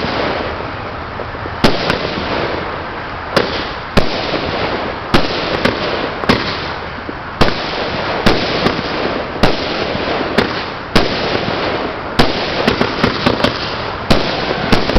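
Consumer fireworks going off: a string of sharp bangs, roughly one a second, over a continuous crackling hiss.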